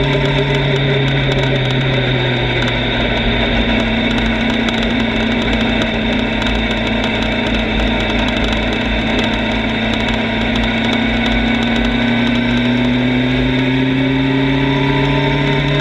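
Motorcycle engine running steadily while riding, under a constant rushing noise. The engine note drops a little a few seconds in and rises again near the end.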